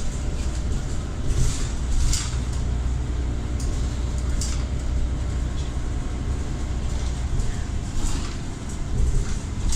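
Scania Omnicity single-decker bus under way: a steady low engine drone with a faint whine from its ZF automatic gearbox, and intermittent rattles and clicks.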